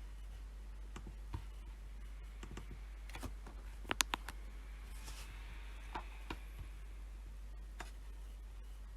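Scattered clicks from a computer keyboard and mouse, with a quick group of three sharper clicks about four seconds in, over a low steady hum.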